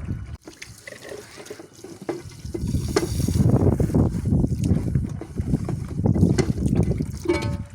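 Water from a kitchen tap running into a sink while dishes are hand-washed, the flow coming on strongly about two seconds in after a few light clicks and knocks. Near the end there is a brief ringing tone.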